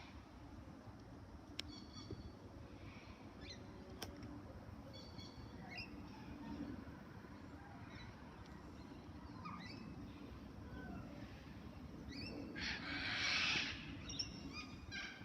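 Birds chirping and calling on and off, with one loud harsh call about thirteen seconds in, over a faint steady low rumble.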